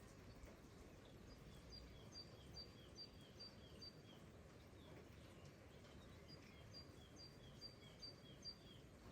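Faint outdoor ambience: a songbird sings two phrases of short, evenly repeated high notes, the second phrase starting about six seconds in, over a low steady hiss.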